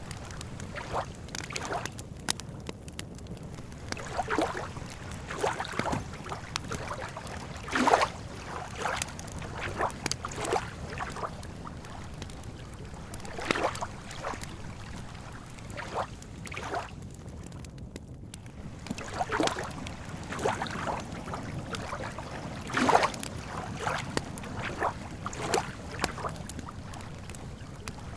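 Small waves lapping irregularly at a lake's edge, each slosh arriving every second or two, a few louder than the rest. A campfire crackles with fine ticks throughout.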